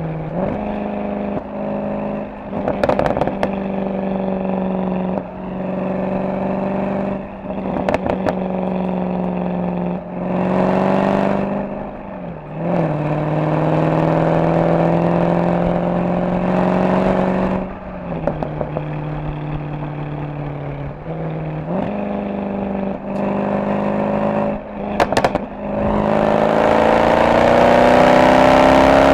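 Mercedes-AMG SL63's V8 and exhaust under way, pulling up through the gears: the engine note climbs, drops at each shift and climbs again, with a few short clusters of sharp crackles. Near the end it pulls hard, its pitch rising steadily.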